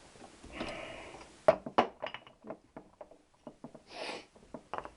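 Small motorcycle gearbox parts being handled on the bench: a short scrape, then a run of irregular light clicks and taps, with another brief scrape near the end.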